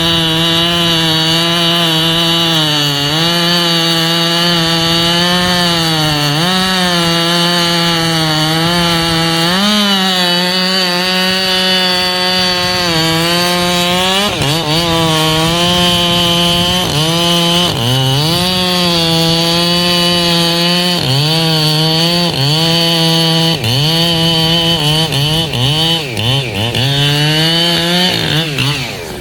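Echo CS-7310 two-stroke chainsaw running at high revs while cutting ash wood. Its pitch sags and recovers again and again as the chain loads up in the cut, then falls away near the end as the throttle is let off.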